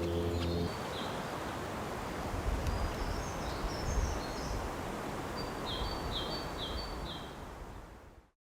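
Outdoor woodland ambience with wind rumble on the microphone and small birds calling: scattered short high calls in the middle and a run of four quick call notes near the end, fading out just before the end. Background music stops just after the start.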